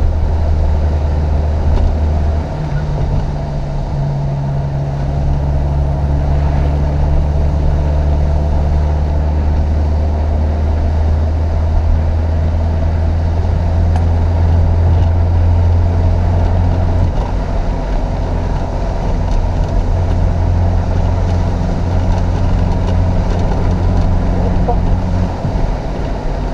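Chevrolet Opala Comodoro's four-cylinder petrol engine running hard under load, its pitch shifting a few times as the throttle and gears change.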